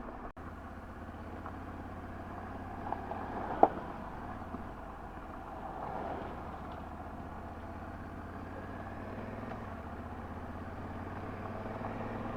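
Motorcycle engine running steadily, a Honda Africa Twin, with one sharp click about three and a half seconds in.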